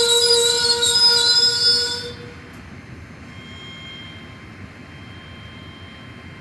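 A train making a loud, steady, high-pitched tone that cuts off abruptly about two seconds in, leaving a quieter rumble of train noise.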